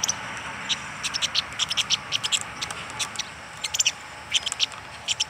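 A small bird calling in short, sharp, high chirps that come in quick clusters, over a steady hiss.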